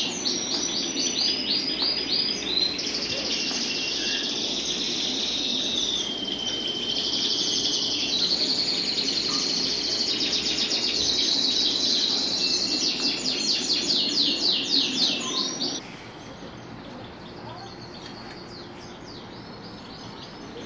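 Many caged birds chirping and trilling together in a dense, high chorus. About three-quarters of the way through it drops suddenly to a fainter level with fewer calls.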